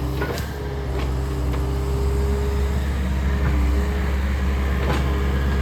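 Takeuchi excavator running at work, a steady low diesel drone with a hydraulic whine that holds and shifts in pitch. A few short knocks and clanks break in, about a second in and near the end.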